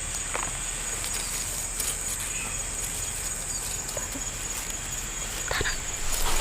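Insects buzzing steadily at a high pitch, with a few light knocks scattered through, the loudest near the end.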